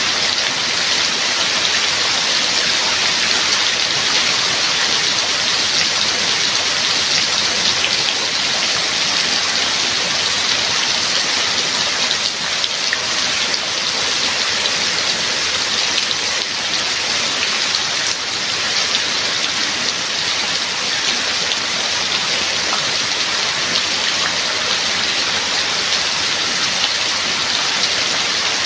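Steady heavy rain falling, a dense, even hiss of drops without letup.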